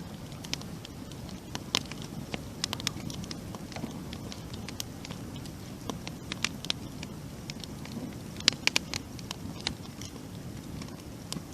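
Campfire burning: wood crackling with irregular sharp pops over a low, steady rush of flame, with a quick run of louder pops about eight and a half seconds in.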